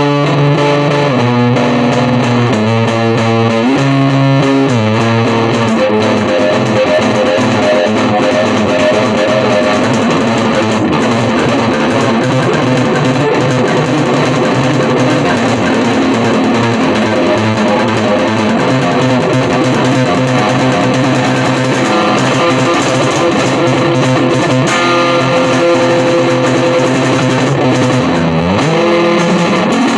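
Electric guitar music: loud, dense, sustained chords, with a slide down and back up in pitch just before the end.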